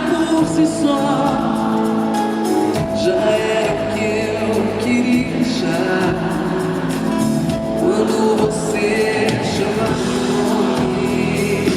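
Live pop song performance: a band playing with a sung vocal line over it.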